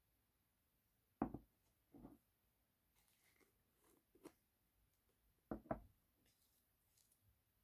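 Hands handling slime: a few short, soft thuds, with a close pair past the middle, and faint sticky clicks between them in an otherwise near-silent room.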